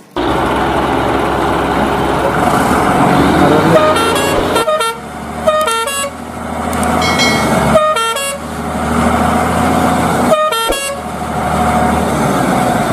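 Cartoon truck sound effects: a vehicle engine runs steadily while a horn toots in short pitched notes several times.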